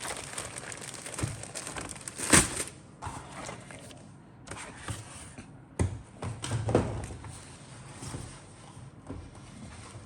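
Plastic model kit parts and packaging being handled: crinkling bags and cardboard, with a couple of sharper knocks, the loudest about two seconds in.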